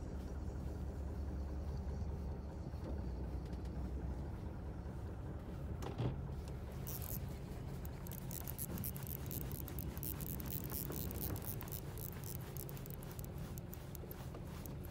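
Fishing boat's engine running steadily with a low hum, with a sharp knock about six seconds in and a spell of rapid clicking and rattling after it.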